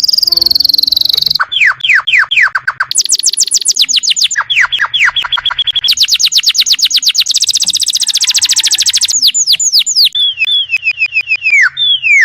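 Domestic canary singing a loud, fast song: phrases of quickly repeated falling whistled notes alternate with rapid high trills, the phrase changing every second or two.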